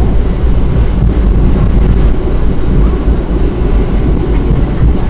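Steady loud rumble of a moving NJ Transit passenger train heard from aboard, its wheels running on the rails at speed.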